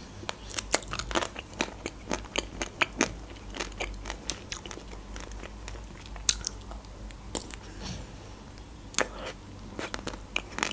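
Close-miked eating: chewing and crunching, with irregular sharp crackles and mouth clicks.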